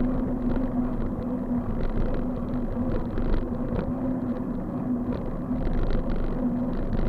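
A bike riding along a road: a steady hum of constant pitch over low road rumble and wind, with frequent small rattles and clicks.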